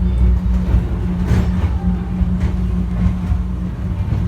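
Airport inter-terminal subway train running at speed, heard from inside the car: a steady low rumble with a constant hum.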